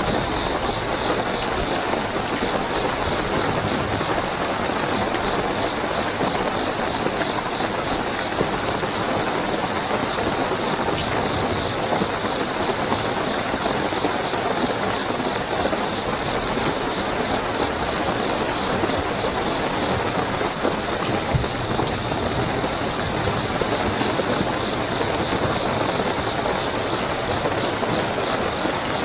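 Steady heavy rainfall, with crickets chirping in a continuous high trill over it.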